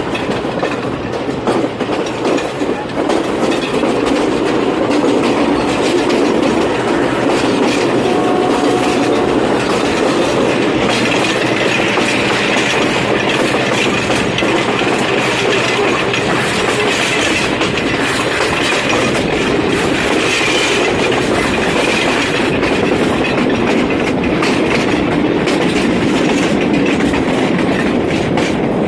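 Passenger train running on the Badulla line, wheels clattering steadily over the rails with a constant rumble. A faint high squeal joins about ten seconds in and fades a little after twenty.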